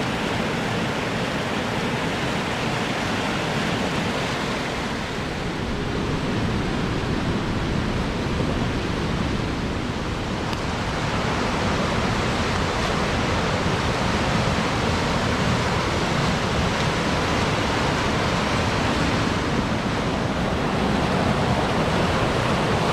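The Merrimack River running high, with a steady roar of rushing water.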